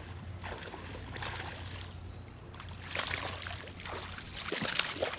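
Water splashing in irregular bursts as a hooked smallmouth bass is played and landed, the loudest splashes about three and five seconds in, over a steady low hum.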